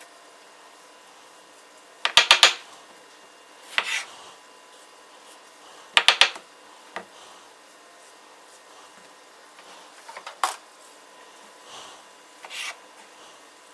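Knife chopping on a cutting board in two short bursts of quick strikes, about two and six seconds in, with scattered single knocks and scrapes of kitchen utensils.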